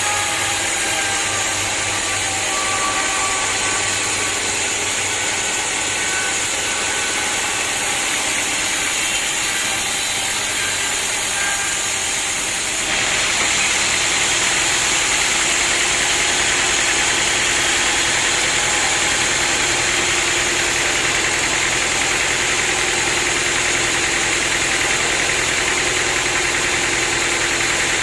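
Sawmill saw machinery running steadily. About thirteen seconds in, the sound steps up, louder and hissier, and stays that way.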